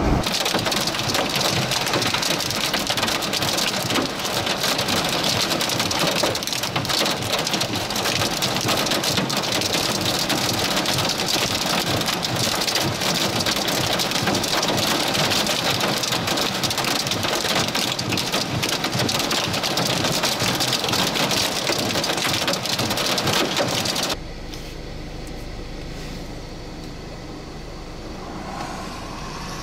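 Heavy rain hitting a car's roof and windshield while driving: a dense, steady patter full of sharp little taps. Near the end it cuts off abruptly to a much quieter steady low rumble.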